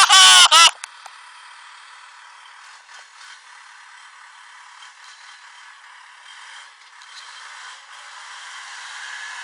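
A loud, high-pitched yell lasting about a second at the start, followed by a steady hiss with scattered faint clicks and rattles.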